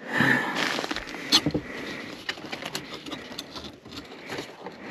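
Handling noise of hands working at the fan's wiring: rustling with scattered small clicks and taps, and one sharper click about a second and a half in.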